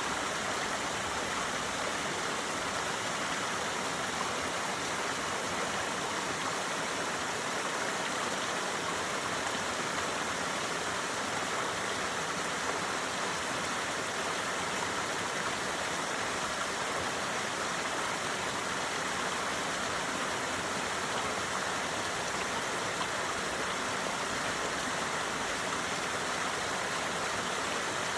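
Waterfall pouring steadily: an even, unbroken hiss of falling water.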